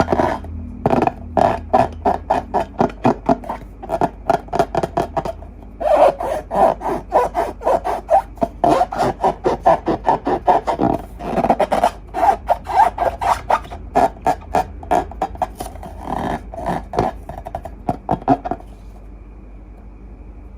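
Slime being squished and worked by hand: a quick run of sticky squelches and crackles, about three or four a second, that stops near the end.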